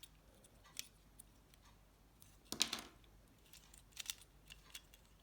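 Faint clicks and taps of small plastic and metal phone parts being handled while reassembling a Nokia 7373 handset, with one short, louder scraping rustle about two and a half seconds in.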